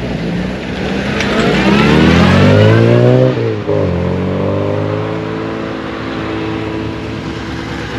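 Classic car engine pulling away under acceleration, its note rising for about three seconds, then a brief dip as it changes gear and runs on at steadier revs.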